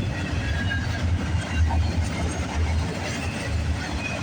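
CN freight train rolling past at close range, its wheels rumbling and clacking over the rails. A deep low rumble swells and fades several times.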